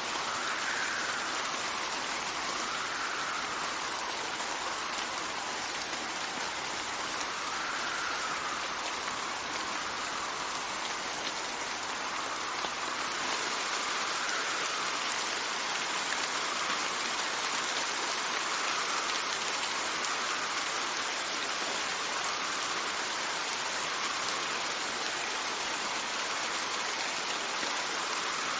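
Steady rain falling, an even hiss of drops with a faint rise and fall every two to three seconds.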